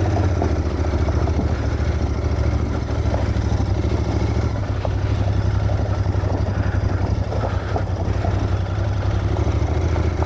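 Cafe racer motorcycle engine running steadily at low revs, a deep pulsing note.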